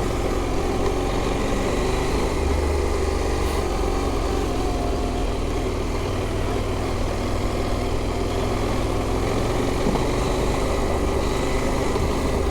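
KTM adventure motorcycle engine running at a steady pace while riding along a dirt trail.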